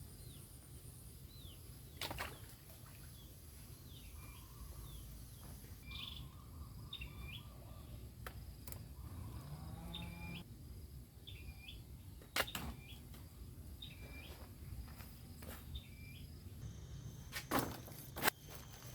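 A bird giving short chirps, one about every second, over a steady low rumble, with a few sharp clicks.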